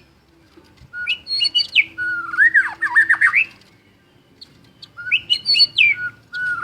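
White-rumped shama (murai batu) singing: two phrases a few seconds apart, each opening with a few clear whistled notes and running into a quick string of rising and falling notes.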